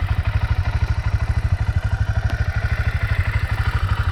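Vehicle engine idling with an even, rapid low pulse.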